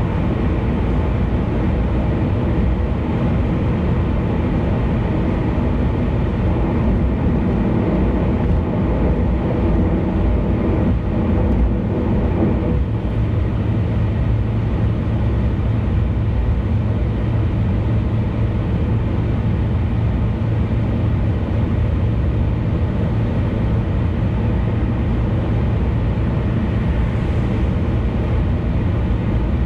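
Car travelling at speed on an expressway: steady road and tyre noise with a low engine drone. The drone grows a little stronger partway through.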